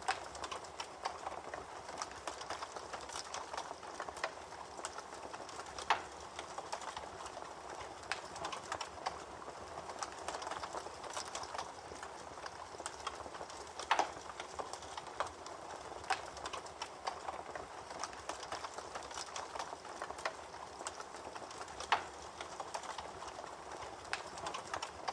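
Campfire crackling with frequent small pops and a few louder snaps about every eight seconds, over the steady babble of a creek.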